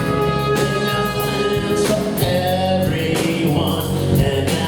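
Live rock band with a horn section playing the intro to a song, the horns holding sustained notes over bass and drums, recorded loud and full in a concert hall.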